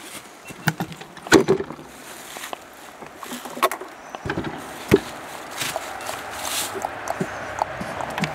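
Irregular wooden knocks and clunks, a few sharp ones standing out, with brief rustling in between.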